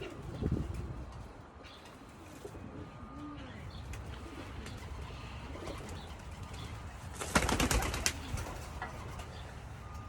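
Racing pigeons cooing low, with a loud flurry of flapping wings about seven seconds in.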